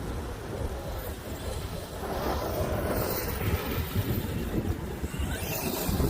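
Wind buffeting the microphone, with the brushless electric motor of an Arrma Outcast 8S RC truck whining, rising in pitch as it accelerates, from about two seconds in.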